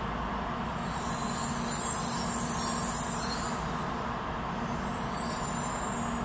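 N700-series Shinkansen train creeping to a stop alongside the platform: a steady low hum and rumble, with a spell of high hiss over the first few seconds and another near the end as it halts.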